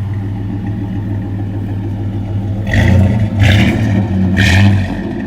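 Chevy S10 pickup's engine, just started, idling and then revved in three short blips in the second half.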